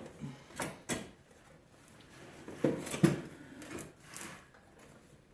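Several short knocks and clatters of metal parts and tools being handled and set down, the loudest pair about two and a half to three seconds in.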